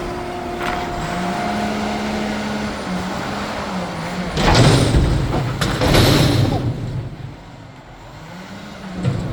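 Diesel engine of a Peterbilt McNeilus front-loader garbage truck running, its pitch rising a little, with two loud bursts of air hiss about halfway through. It then drops quieter for a few seconds near the end.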